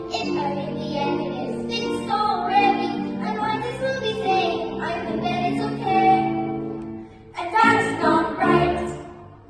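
Children's ensemble singing a musical-theatre song with accompaniment. The music breaks off briefly about seven seconds in, then a few final sung notes fade away.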